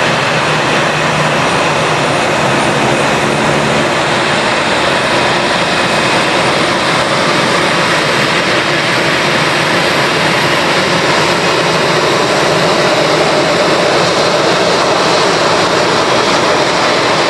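Airbus A320 twin jet engines at takeoff power: a loud, steady jet roar that grows slightly louder in the last few seconds.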